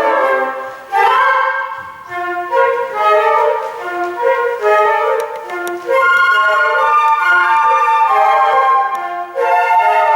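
Flute ensemble playing, several flutes sounding together in chords. A loud chord enters about a second in, the middle of the passage moves in short separate notes with lower parts underneath, and full held chords return about six seconds in.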